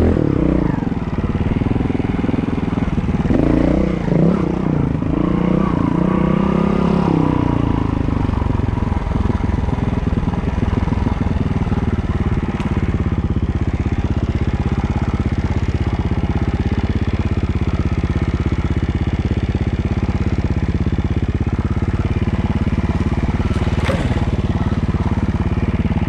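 Honda Montesa 4RT trials bike's four-stroke single-cylinder engine. For the first several seconds it revs up and down with the throttle, then runs at a steady low speed. There is one sharp knock near the end.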